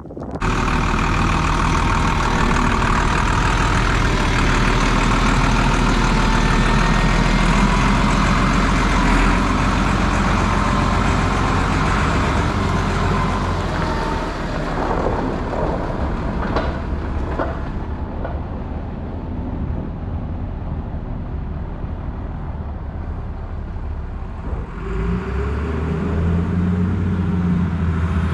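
Diesel engine of a Volvo L70C wheel loader running steadily at working speed while plowing. Its note shifts about 25 seconds in.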